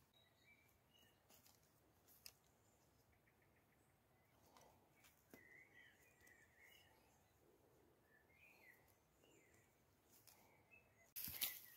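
Quiet forest with faint, scattered bird chirps and a few soft clicks of small sticks being pressed into a moss wall. Near the end, a sudden run of loud, sharp clicks and snaps.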